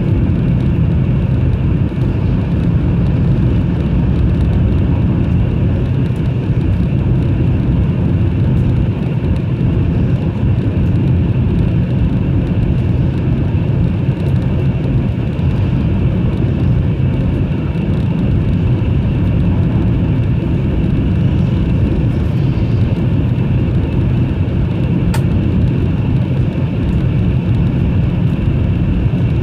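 Steady low rumble of a Taiwan High Speed Rail 700T train running at speed, heard from inside the passenger cabin.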